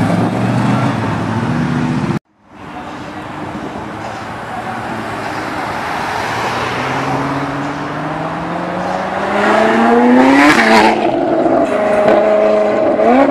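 A Cobra replica's engine runs as the car pulls away, then cuts off abruptly. A supercar then accelerates up the road and past, its engine note climbing steadily through the revs. It is loudest as it passes, about ten seconds in, and revs up again near the end.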